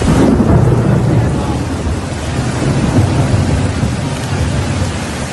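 Thunder rumbling over steady heavy rain, the rumble strongest in the first two seconds and then fading to a lower, steadier roll.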